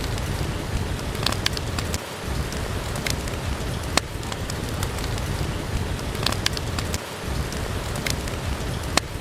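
Steady rain with a low rumble, overlaid by scattered sharp pops and crackles of a wood fire burning in a fireplace.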